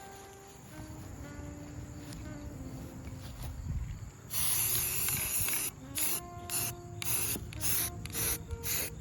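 Aerosol spray paint can spraying: one long spray of about a second and a half, followed by a run of about seven short bursts.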